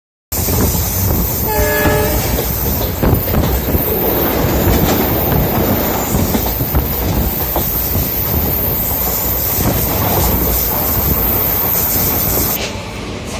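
Passenger train running on the rails: a steady rumble with the clickety-clack of the wheels over the track joints, and a short horn blast about a second and a half in. The rumble gets quieter near the end.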